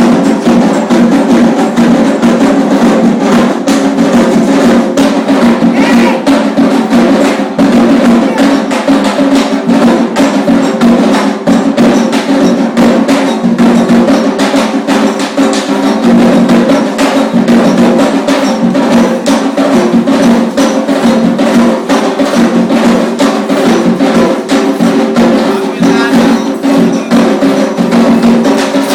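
Candomblé ceremonial drumming: hand drums played in a dense, steady rhythm, with sharp clicking strokes and voices singing over it.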